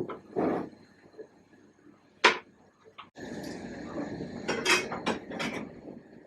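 Short clicks and rattling knocks of small objects being handled: one sharp click about two seconds in, then a quick run of clatters near the end.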